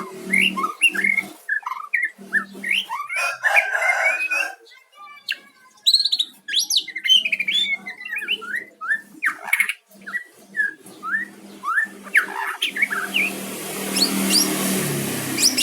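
White-rumped shama (murai batu) singing: a fast run of short rising whistled notes and chirps, with a low steady hum beneath at times.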